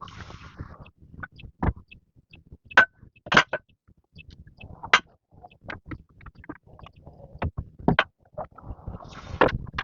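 Irregular sharp knocks and clatter, about a dozen uneven strikes, with short stretches of rustling noise between them.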